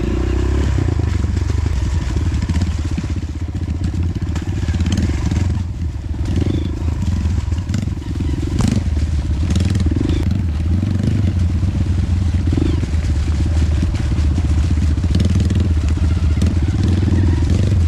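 Honda CRF150L trail bike's single-cylinder four-stroke engine running steadily at low revs, with a few sharp knocks and crackles around the middle from the bike riding over rough ground.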